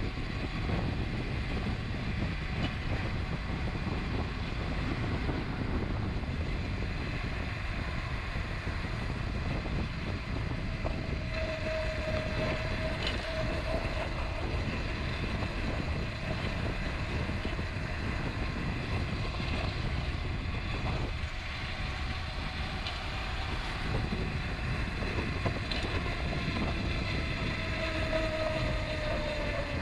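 Wind rushing over the microphone and rolling noise from a mountain bike being ridden on a trail, a steady low rumble. A faint thin whistling tone comes in briefly twice, about twelve seconds in and near the end.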